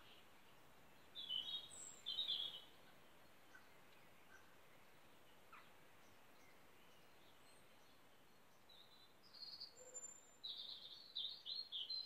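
Songbirds singing: two short phrases a little after the start, then a longer run of quick chirping notes in the last few seconds, over a faint steady background hiss.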